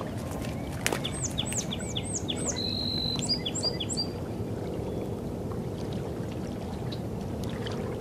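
A small bird calls: a quick run of about five short falling notes, then a held whistle and a few rising notes, over a steady low rush of outdoor noise. A single sharp click comes just before the calls begin.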